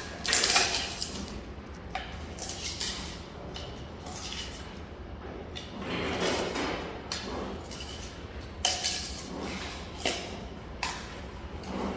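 Giant panda eating bamboo: irregular crunching and chewing, broken by sharp cracks as stalks snap and are peeled.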